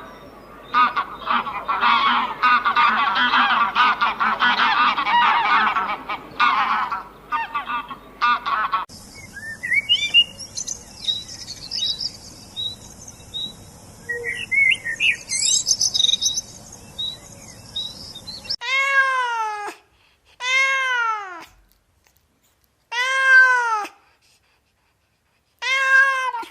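A sequence of animal calls: about nine seconds of many dense, overlapping calls from a flock, then about ten seconds of birds chirping over a steady hiss, then four separate drawn-out calls that each rise and fall in pitch.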